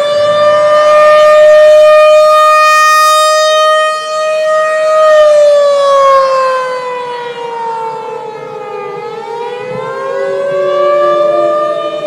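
Civil defense warning siren wailing: it holds a high, steady pitch, falls away from about five seconds in, then winds back up near the end.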